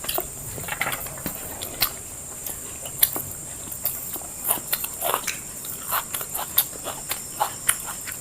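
Close chewing and lip-smacking from people eating biryani fast, irregular wet smacks and clicks several times a second, over a faint steady high-pitched whine.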